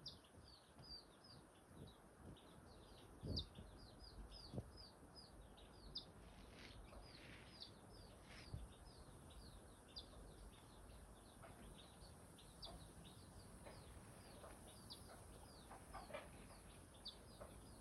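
Faint bird chirping: short, high, downward-falling chirps repeated about two to three times a second, with a couple of soft low thumps a few seconds in.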